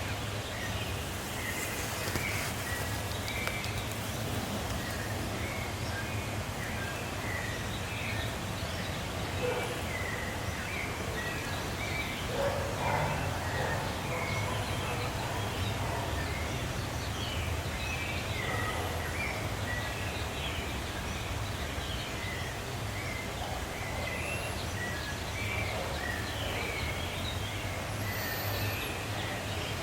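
Many small birds chirping continually over a steady low hum of outdoor background noise.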